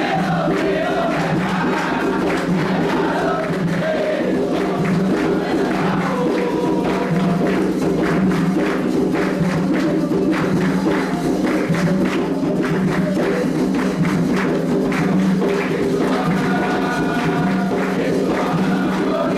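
Candomblé ritual song: a group of voices singing together over steady drumming and percussion.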